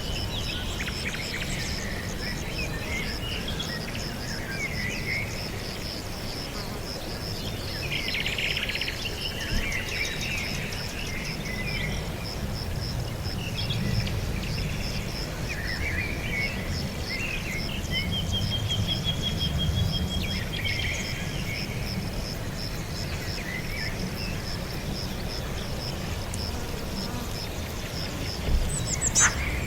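Outdoor ambience of birds chirping and calling in scattered bursts, including a quick trill of repeated notes, over a steady rapidly pulsing insect trill and a low background rumble. A sharp, louder call stands out near the end.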